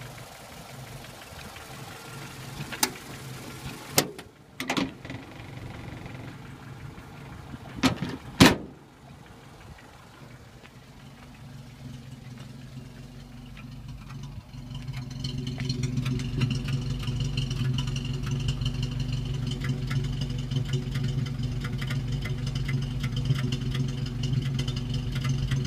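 1476 cc Morris sidevalve (flathead) four-cylinder engine idling smoothly, ticking over steadily. Several sharp clunks come in the first nine seconds, the loudest about eight and a half seconds in. From about fifteen seconds in the idle is louder and fuller, heard from the exhaust pipe.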